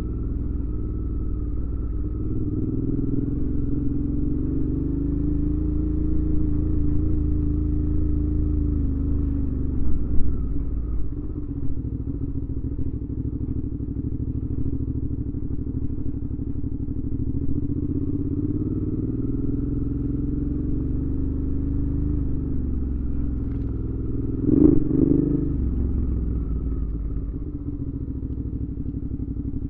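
2019 Suzuki V-Strom 650's 645 cc V-twin engine running on the move through a Delkevic aftermarket exhaust, its pitch rising and falling with the throttle. There are brief louder blips about ten seconds in and near the end.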